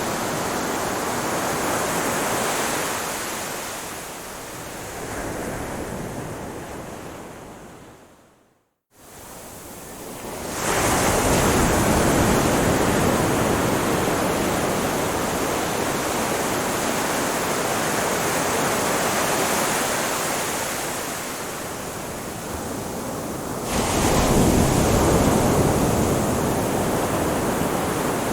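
Ocean surf: waves washing onto a shore in a steady rush that swells and ebbs. About eight seconds in it fades out to a moment of silence, then comes back louder, with another swell near the end.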